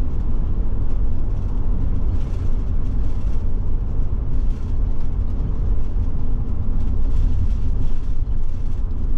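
Forest River Forester motorhome driving along a road: a steady low rumble of engine and road noise, with no marked changes.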